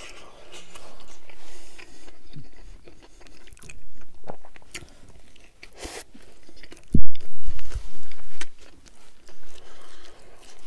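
Close-miked chewing and biting of a Burger King Whopper, with many small wet mouth clicks. A loud, short, deep thump about seven seconds in.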